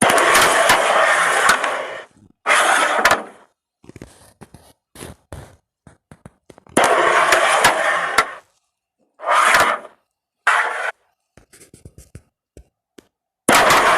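Carrom striker and coins sliding and clicking on a carrom board: several scraping slides of a second or two each, marked with sharp clicks as the pieces strike one another and the board's edge, with scattered small taps in the pauses between shots.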